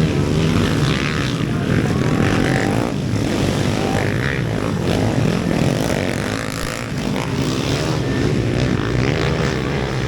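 Several underbone motorcycle engines racing together in a continuous buzz, their pitches rising and falling as the riders work the throttle and shift gears.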